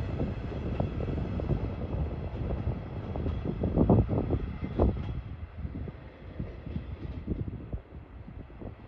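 Passenger coaches rolling away over station points, wheels clattering on rail joints and switches with a low rumble. The clatter is loudest about four to five seconds in, then fades as the train draws off.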